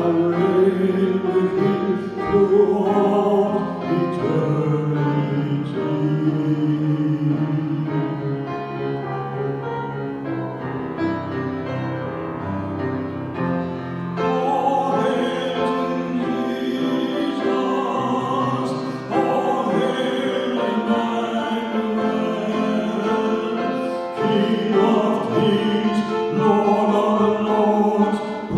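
A praise hymn sung with instrumental accompaniment, with sustained melodic vocal lines over held notes.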